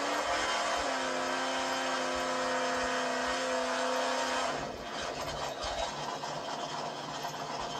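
Drag car's engine revved up and held at steady high revs during a burnout, its rear tyres spinning and smoking. About four and a half seconds in, the revs drop off and the steady note gives way to rougher noise.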